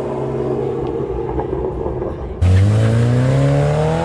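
Car engines rumbling at low revs. About two and a half seconds in, one car's engine comes in abruptly and much louder, its pitch climbing steadily as it accelerates hard away.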